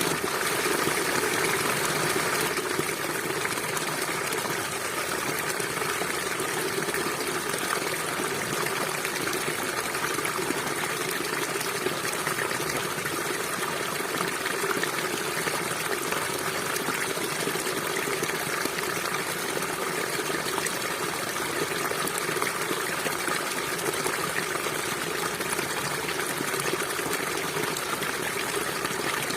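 A stream flowing steadily, giving an even rush of running water. It is a little louder for the first couple of seconds, then settles.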